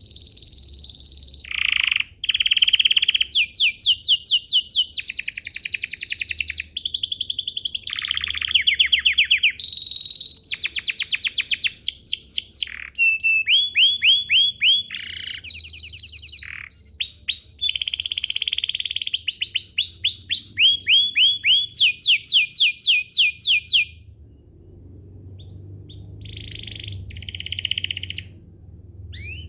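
Domestic canary singing a long, loud song of trills and fast runs of repeated notes, several notes a second, switching to a new run every second or two. About 24 s in the song breaks off, leaving a few short, quieter phrases.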